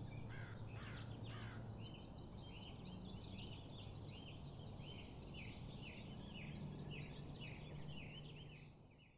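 A bird calling repeatedly in woodland, short arched notes about twice a second, faint over a low steady background hum, fading out at the end.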